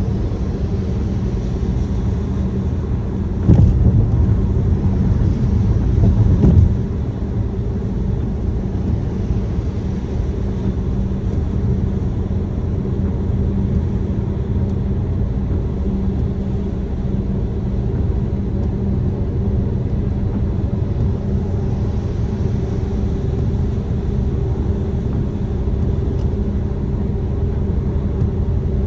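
Steady low rumble of a car being driven, heard from inside: road and engine noise. It swells louder for about three seconds, starting about three and a half seconds in.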